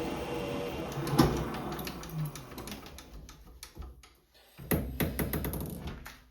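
Small lathe running with a drill in the work, then switched off and running down, with a sharp knock about a second in. A few clicks and knocks of metal parts being handled follow near the end.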